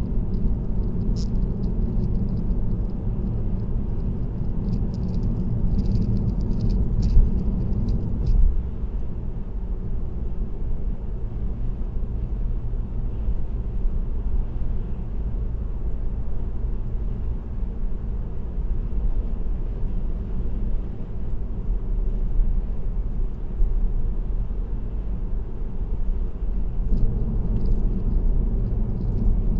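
Steady low road rumble of a car cruising at highway speed, picked up by a dashcam inside the cabin, with faint scattered rattling ticks over the first eight seconds. The rumble eases a little after about eight seconds and swells again near the end.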